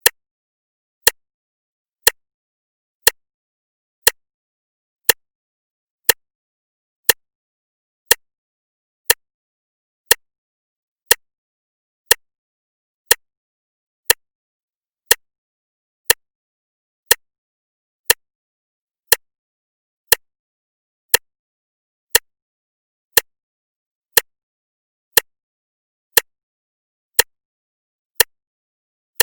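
Clock ticking once a second: sharp, even clicks with silence between them.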